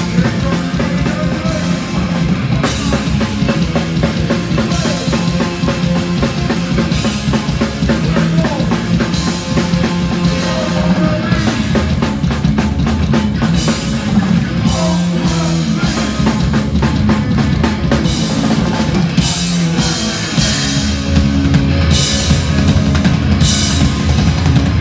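Hardcore punk band playing live, with a loud drum kit and bass drum driving the music.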